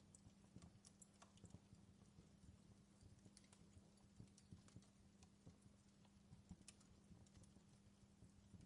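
Wood campfire crackling faintly, with irregular small pops and snaps several times a second, over a faint steady hum.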